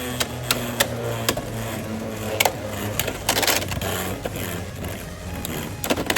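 Two Beyblade X spinning tops, one of them Arc Wizard R 4-55LO, spinning in a plastic stadium and clashing, with a run of sharp clacks from their hits. Under the clacks is a steady whirring hum that slowly drops in pitch as the tops lose spin.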